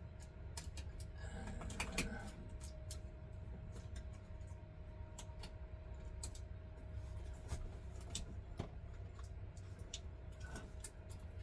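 Scattered light clicks, ticks and crinkles of hands handling tape and parts, over a steady low hum.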